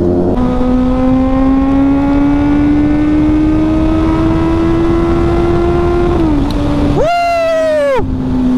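Vehicle engine running under load, its pitch climbing slowly and steadily. About seven seconds in, a loud pitched sound sweeps sharply up, holds for about a second and drops back.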